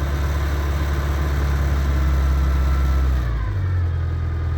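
1960 Morris Minor's A-series four-cylinder engine running at a held fast idle on a cold start, as it won't tick over cold. About three seconds in, the revs drop and it settles to a steady idle.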